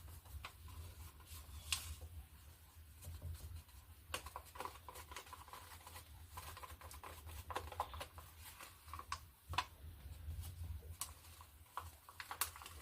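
Faint clicks, taps and small scrapes of paint bottles and cups being handled while acrylic paint is poured onto a canvas, over a steady low hum.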